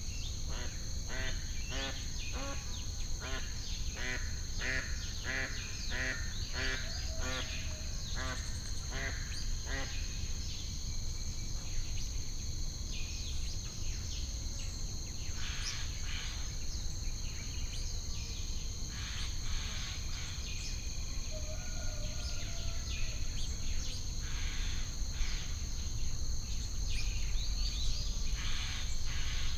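A duck quacking in a run of about two quacks a second for roughly ten seconds, then only occasional calls, over a steady high-pitched drone of insects.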